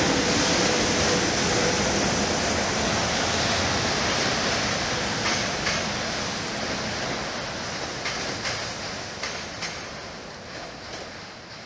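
SEPTA Silverliner IV electric commuter train running past and pulling away into a tunnel: a steady rumble and rush of wheels on rail that slowly fades, with a few light clicks in the second half.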